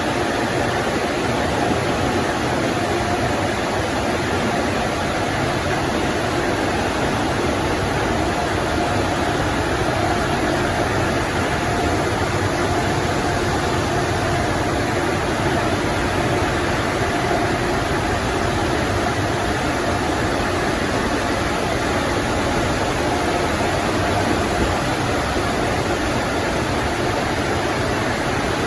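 PDQ LaserWash 360 touchless car wash running a cycle: a steady, loud, unbroken rush of spraying water or blowing air with a faint machine hum underneath.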